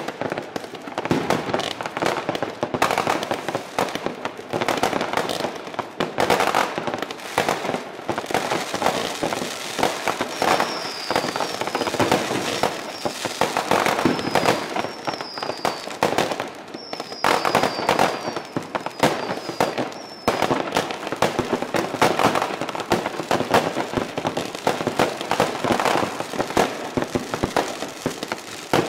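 New Year's Eve fireworks and firecrackers banging and crackling without pause, many overlapping. Near the middle there is a run of short, high, falling whistles.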